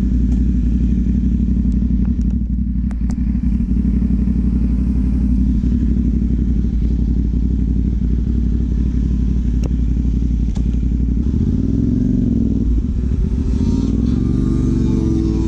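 CFMoto 450 parallel-twin motorcycle engine through a Yoshimura AT2 replica slip-on exhaust, running steadily at idle. In the last few seconds the engine pitch dips and rises a few times as the revs change.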